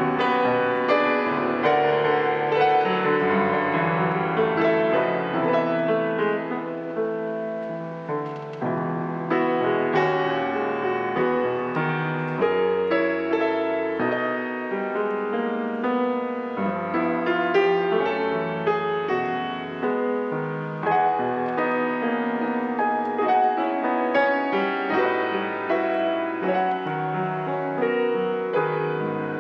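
Solo jazz piano playing a slow ballad with rich, sustained chords that change every second or two.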